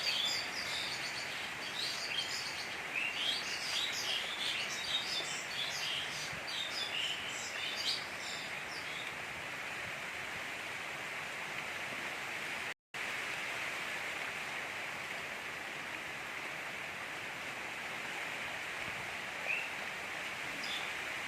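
Steady gentle rain, with small birds chirping over it in quick calls for the first several seconds and once more near the end. The sound drops out for a moment about 13 seconds in.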